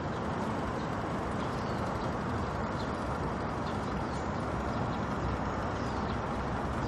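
Steady outdoor city background noise, with a few faint, short chirps of small birds scattered through it.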